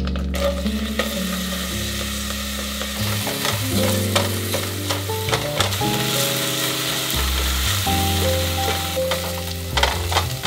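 Chopped onion sizzling in hot oil in a stainless steel pot, stirred and scraped with a spatula, with background music.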